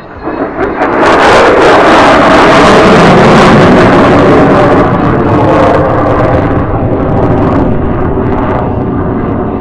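F-35A Lightning II's single turbofan engine during a loud jet pass: the noise swells abruptly about a second in, with crackle for several seconds, then slowly fades toward the end.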